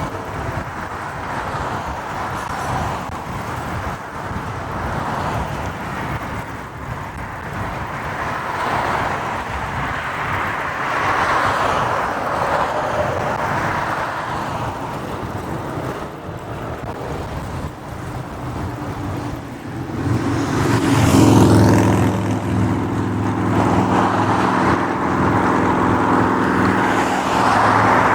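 City street traffic and wind rush heard from a moving motorcycle. About twenty seconds in, a steady low engine hum joins and the sound grows louder.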